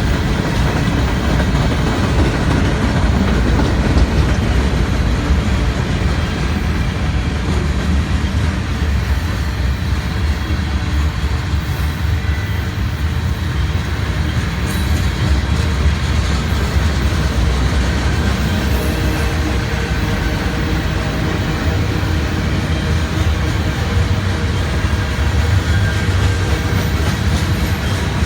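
Freight train rolling past, its cars' steel wheels on the rails making a steady, loud rumble.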